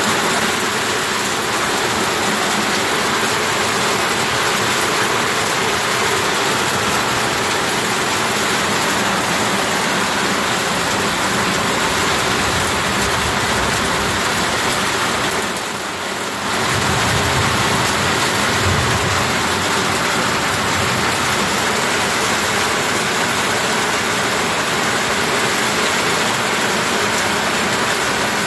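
Heavy rain pouring down steadily, with a short dip a little past the middle followed by a low rumble lasting a couple of seconds.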